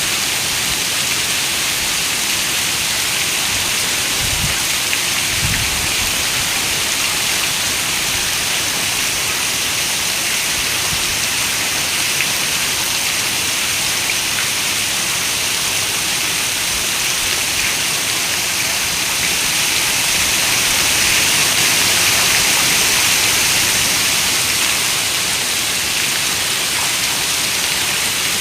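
Heavy rain falling, a steady dense hiss that swells slightly louder for a few seconds about two-thirds of the way through. Two brief low thuds come about four and five seconds in.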